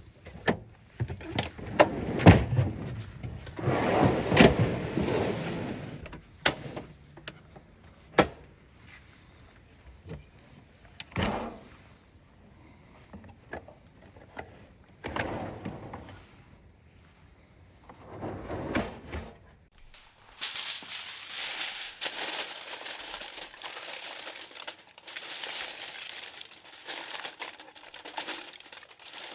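Knocks, clunks and rustling of camp gear and food being handled and set down. After an abrupt change about twenty seconds in, dense crinkling like plastic packaging being handled.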